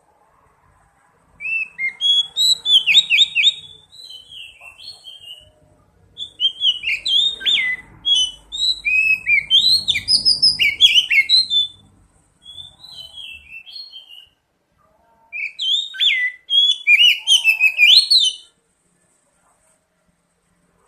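Oriental magpie-robin (kacer) singing loud, varied whistled phrases: rapid sweeping notes in three long bursts, with softer, quieter phrases between them. It is lure song for drawing a response from a young kacer.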